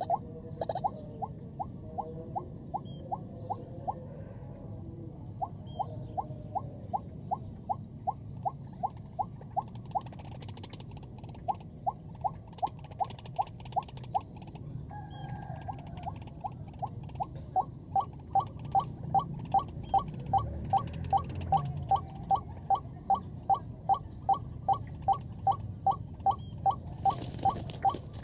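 White-breasted waterhen (ruak-ruak) calling: a long run of short, rising notes, about two a second. It pauses twice and grows louder in the second half.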